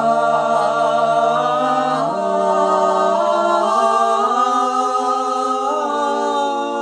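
Three voices singing an Irish folk song a cappella in harmony, holding long drawn-out notes without words. The chord shifts about two seconds in and again near the end.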